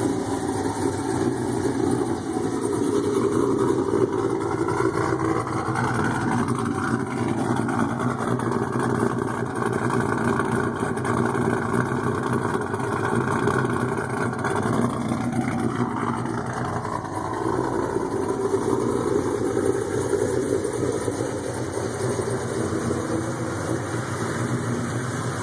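An engine running steadily, its pitch sliding up and down a couple of times.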